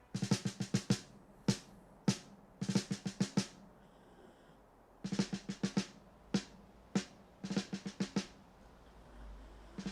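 Snare drum playing alone in a recorded song, in irregular bursts of quick rolls and single strokes with short pauses between.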